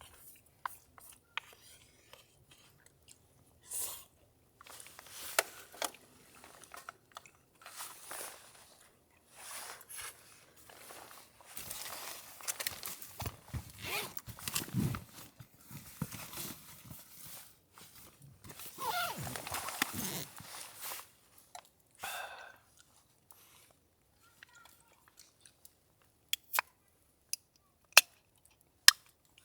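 A person chewing and biting food close to the microphone, in irregular crunchy bursts, with a few sharp clicks near the end.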